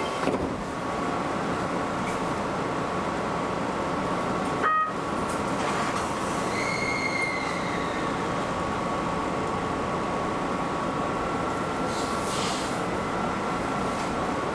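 Keio Inokashira Line electric train running, heard from the front cab: steady rolling noise with a faint steady whine. A brief tone comes about five seconds in, and a short squeal falls in pitch around six seconds in.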